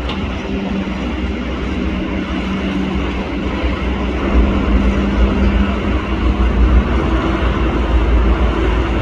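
Heavy engine running steadily: a low rumble with a steady hum, growing a little louder about halfway through.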